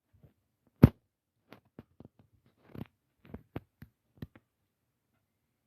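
A sharp knock about a second in, followed by a scattering of softer clicks and taps.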